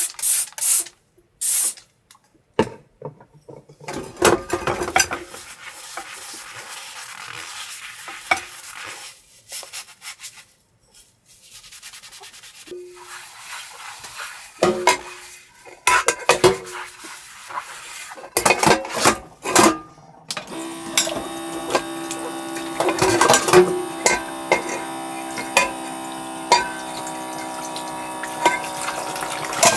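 Dishes, cookware and utensils handled: a run of clinks, knocks and scrapes with short pauses, and a steady hum setting in about two-thirds of the way through.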